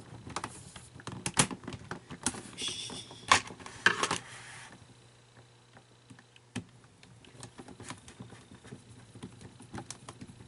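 Small parts and tools being handled at a workbench: a run of light clicks and taps, with a brief rustling about three seconds in, then sparser, fainter clicks.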